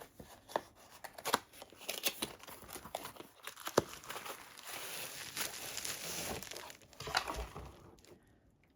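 Plastic packaging crinkling and rustling as it is handled, with scattered sharp clicks and snaps; the rustling dies down near the end.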